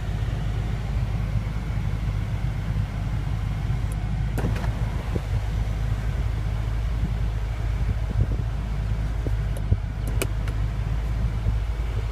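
Steady low rumble of a car heard from inside its cabin, with a few sharp clicks about four and a half seconds and ten seconds in.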